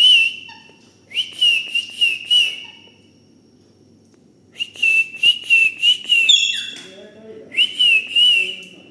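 Repeated warbling whistles in four bursts of about one to two seconds each, with a short higher call near the middle of the third burst.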